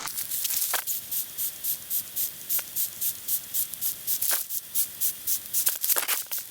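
Rapid rhythmic rasping, about four short hissing strokes a second, with a few sharper clicks now and then.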